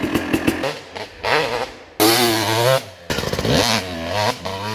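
Kawasaki KX250 two-stroke single-cylinder engine, first idling with an uneven popping, then revving up and down in short spliced clips that cut in abruptly. The owner reports its jetting is far too rich at early throttle.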